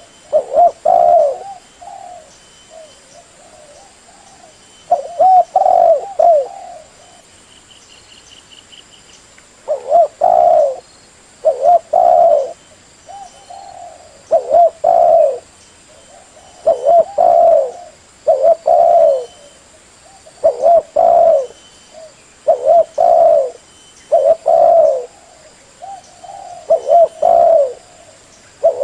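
Spotted dove cooing: phrases of two or three low coos repeated over and over, one every second or two, with a couple of longer pauses early on.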